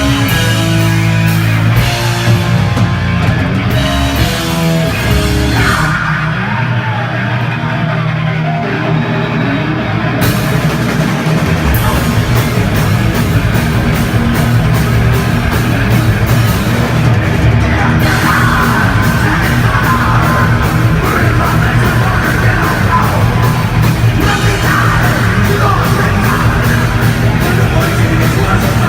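Live heavy metal/hardcore band playing loud distorted guitars, bass and drums with yelled vocals. The cymbals and drums drop out for a few seconds about six seconds in, then come back, and a fast steady cymbal beat drives the last part.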